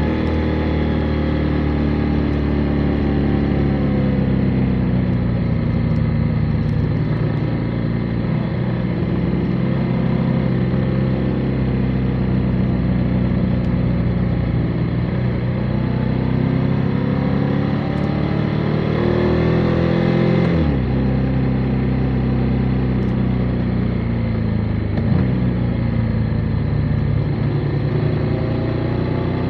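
Motorcycle engine pulling along the road, its pitch sagging and then climbing under throttle. It drops sharply on a gear change about two-thirds of the way through, and again shortly after.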